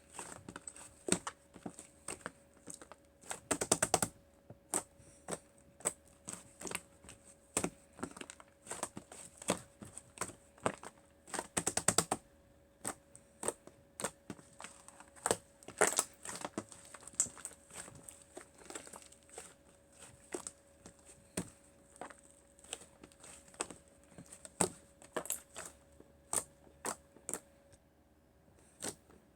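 Clay slime being squeezed and poked by hand, giving irregular sticky clicks and crackling pops, with a few denser runs of crackles.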